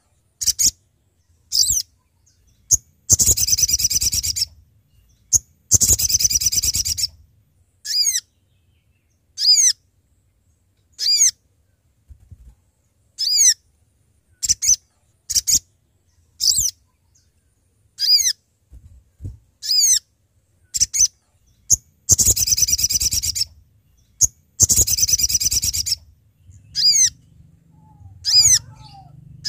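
A sogok ontong (spiderhunter) calling. It gives short, high, falling notes about every second or two. Four times it breaks into a long, harsh chattering call lasting over a second: a lure call meant to draw another bird.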